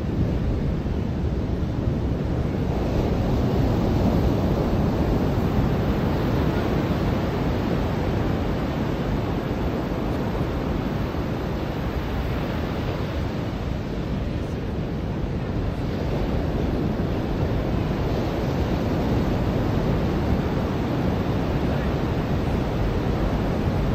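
Ocean surf washing onto a beach: a steady rush that slowly swells and eases, fullest about four seconds in and dipping briefly around the middle.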